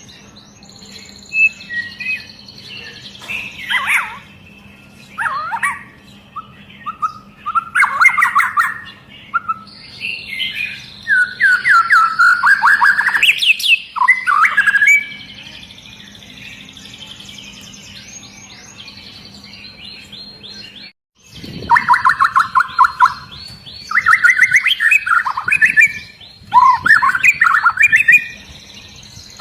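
White-rumped shama (murai batu) singing loud, fast phrases of rapid whistled notes and trills, the dense high 'shots' of a bird in full song. There is a lull of several seconds past the middle, then the song starts again after a sudden brief cut in the sound.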